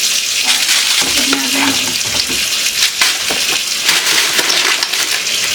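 Hot water running from a tap into a kitchen sink, a steady hiss, with scattered clinks and knocks.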